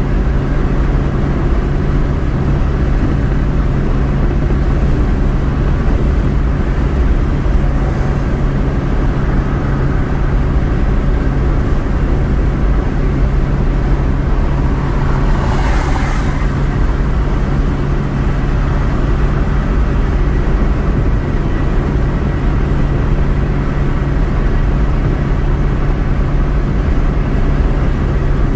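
A car's steady running noise: a low rumble and hum that holds even throughout, with a brief hiss about halfway through.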